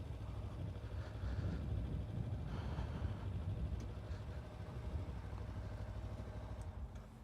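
Kawasaki Ninja 300 parallel-twin engine running low and steady, at idle or barely above, with a slight drop in level near the end.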